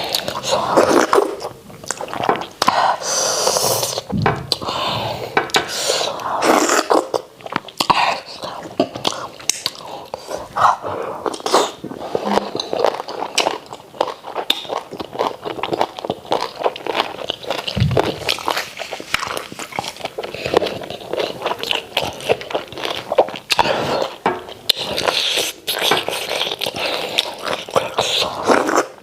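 Close-up mouth sounds of a person eating starch with white soup: wet chewing and lip smacking, a run of many irregular clicks that never stops.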